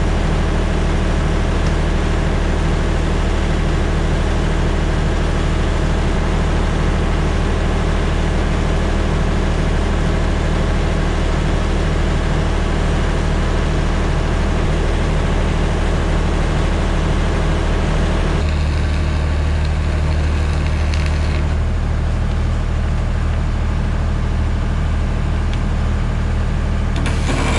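An engine running steadily at a constant speed, its sound shifting a little about 18 and 21 seconds in.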